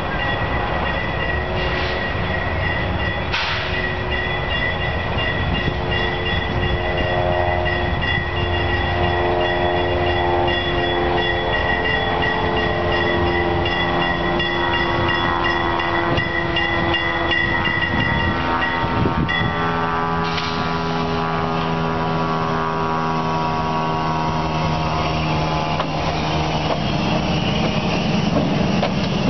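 Diesel locomotives approaching and passing close by, the horn sounding for much of the approach and dropping slightly in pitch as they near. The low drone of the diesel engines follows as the locomotives go by. A steady high ringing tone runs until about two-thirds of the way through.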